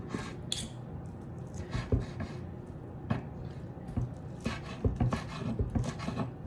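Kitchen knife cutting cooked chicken breast on a chopping block: irregular knocks of the blade against the board, a few at a time.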